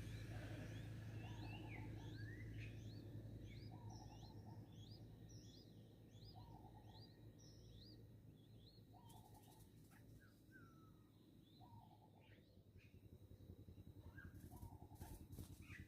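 Faint bird calls: many quick high chirps, most of them rising in pitch, with a short buzzy note repeating every second or two. A few soft clicks come partway through and near the end.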